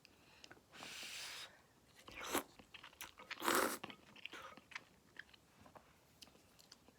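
A person eating ramen noodles close to the microphone: a short slurp about a second in, then chewing with small wet clicks and a couple of louder mouth sounds.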